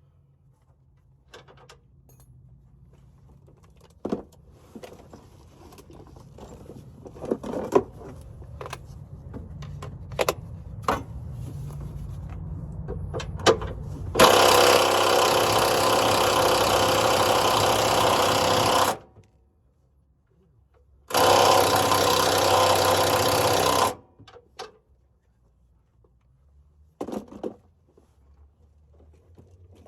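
A power tool running in two long bursts, one of about four and a half seconds and then, after a short pause, one of nearly three seconds; both stop abruptly. Before them come scattered clicks and knocks over a faint hum, and a few more knocks follow near the end.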